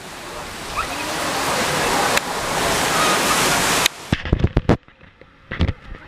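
Loud rush of wind and water noise on a moving boat, growing steadily louder for about four seconds, then cutting off abruptly. A few sharp knocks follow.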